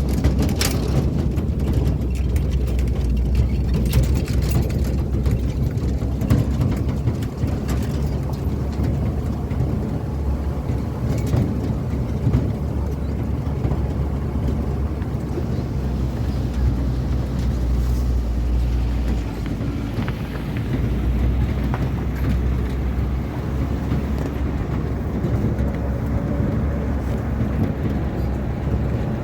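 Steady low engine and road drone inside a moving road vehicle, with small rattles and clicks.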